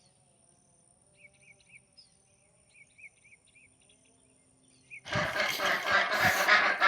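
Faint, scattered bird chirps over a quiet background, then about five seconds in a loud burst of farm geese honking close by.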